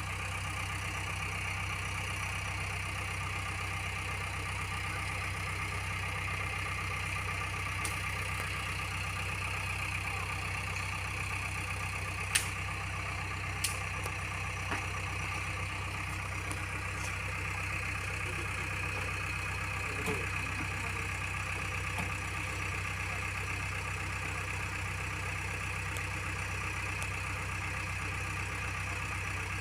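Heavy diesel engine idling steadily, with two sharp clicks near the middle.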